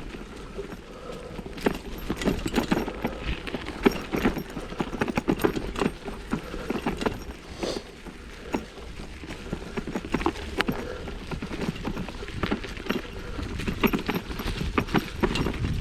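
1987 Specialized Stumpjumper rattling and clattering over a rough dirt trail, with many irregular knocks over a steady low rumble.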